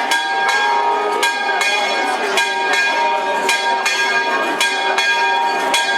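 Church bells pealing, struck about twice a second with each stroke ringing on into the next, over the voices of a crowd.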